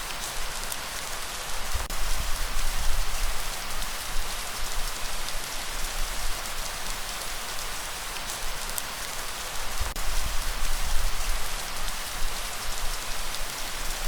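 Steady light rain, an even hiss with scattered drop ticks. Twice a low rumble of breeze swells under it.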